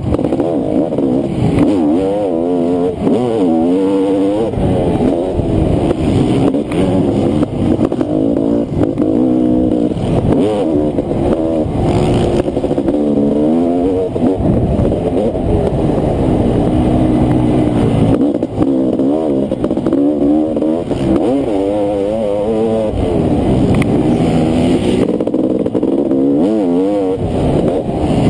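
Honda CR500 two-stroke motocross engine revving up and down continuously while racing, its pitch rising and falling every second or two through throttle and gear changes.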